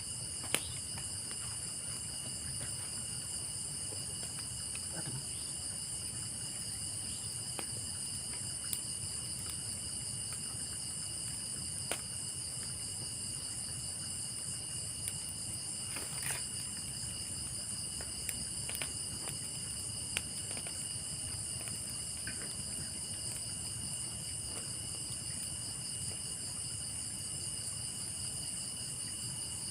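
A steady night chorus of insects, crickets chirring without a break in several high pitches. A few faint sharp clicks and ticks come through now and then.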